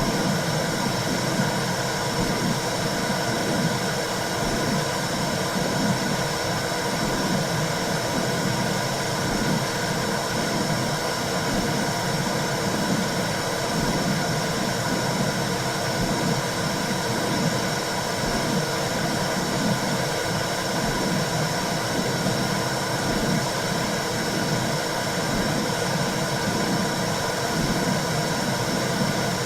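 Womb-sound recording for soothing a newborn: a steady rushing noise like white noise, with a rough flutter low down.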